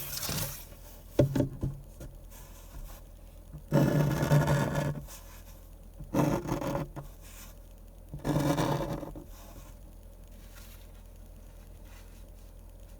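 Drawing tool scraping across paper in about five separate strokes, the longest and loudest about four seconds in. After that only a faint steady low hum remains.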